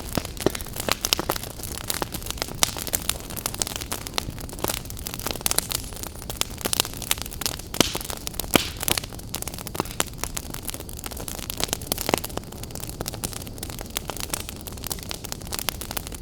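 Wood fire burning in a fireplace, crackling and popping continually over a steady hiss, with a few sharper pops.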